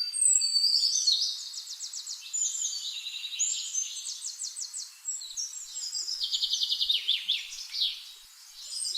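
Small birds chirping and twittering, with rapid high trills of quick repeated notes, dipping briefly about five seconds in and again near the end.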